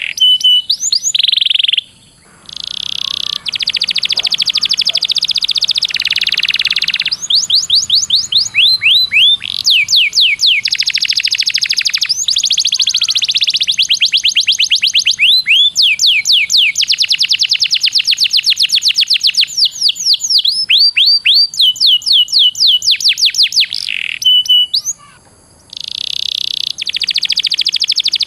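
Domestic canary singing a long, fast song: dense rolling trills alternate with quick runs of sweeping chirps. It breaks off briefly twice, about two seconds in and again near the end.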